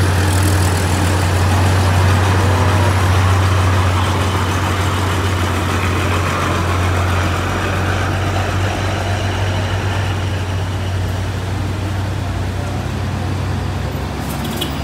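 Heavy truck engine running steadily with a low drone.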